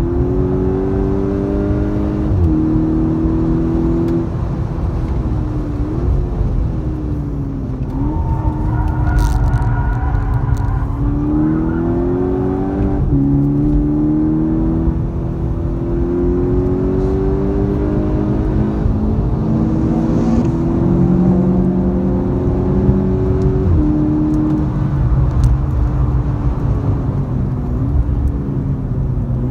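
Volkswagen Golf GTI Mk6's turbocharged 2.0-litre four-cylinder engine pulling hard on track, heard from inside the cabin. Its pitch climbs under acceleration and changes abruptly at each gear change, several times over, over steady tyre and wind noise.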